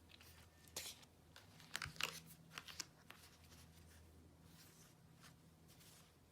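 Tarot cards being handled: a cluster of short, crisp rustles and snaps about a second in, lasting about two seconds, then near silence.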